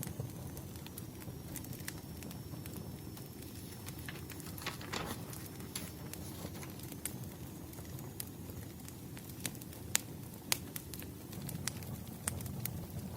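Wood fire crackling: a steady low rumble of flames with many small scattered snaps and a couple of louder pops about ten seconds in.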